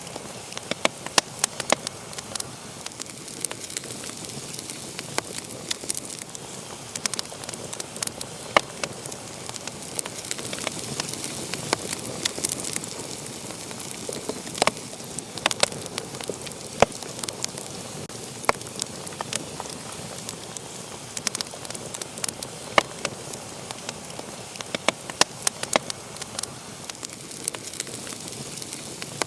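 Wood fire crackling, with irregular sharp pops and snaps, a few of them loud, over a steady soft hiss of burning.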